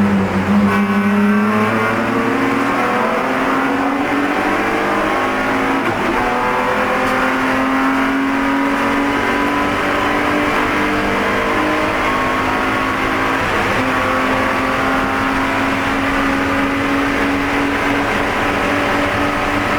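In-car sound of a Spec E46 BMW race car's straight-six engine under hard throttle. Its pitch dips right at the start, then climbs slowly for over ten seconds, with a brief break about two-thirds through before it holds high.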